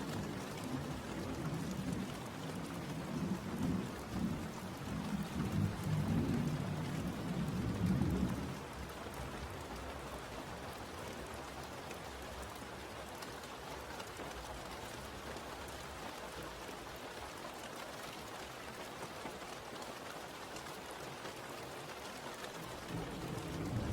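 Steady rain with a low rumble of thunder that swells over the first eight seconds or so, then the even hiss of rain alone.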